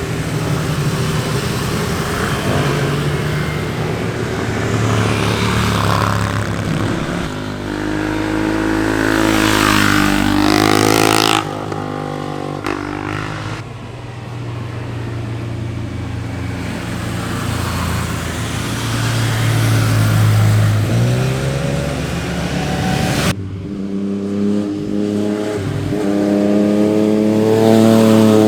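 Sport motorcycles riding past one after another, engines revving and changing pitch as they accelerate and go by. The sound changes abruptly three times, about 11, 14 and 23 seconds in, as one bike's pass gives way to the next.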